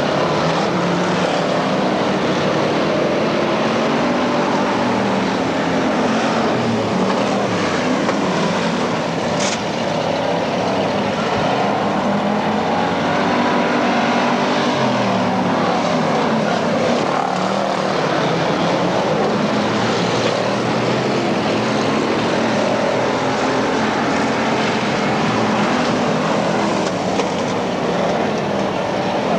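Several dirt-track race car engines running at speed together, their pitch rising and falling as the cars go by and lap the track.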